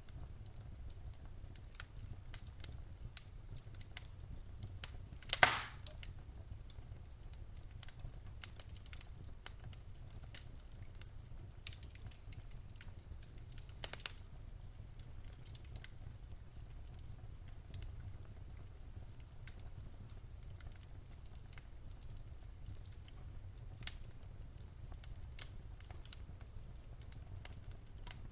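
Wood fire burning in a fireplace: scattered crackles and small pops over a steady low rumble, with one louder pop about five and a half seconds in.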